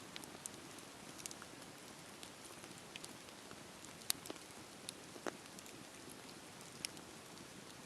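Campfire burning: a steady soft hiss with irregular sharp crackles and pops from the wood, the loudest about four seconds in and again a second later.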